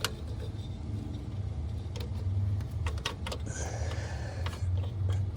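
Metal hand tools (a socket and long extension) clinking and tapping against metal in a tight engine bay while working at a bolt, in scattered sharp clicks over a steady low hum.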